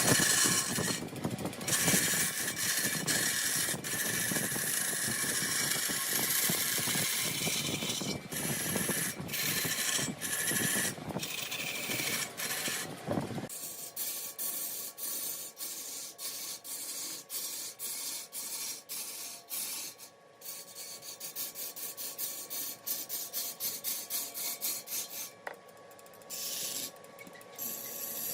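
Wood being worked on a large wood lathe: a dense, continuous scraping and rasping that changes suddenly about halfway to quieter, rapidly repeated scraping strokes.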